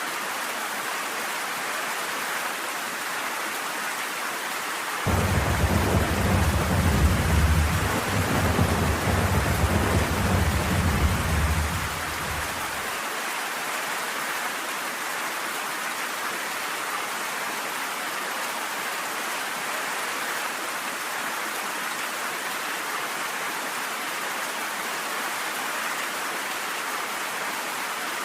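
Steady rain falling, with a roll of thunder that comes in suddenly about five seconds in, rumbles deep for about seven seconds, then dies away, leaving the rain alone.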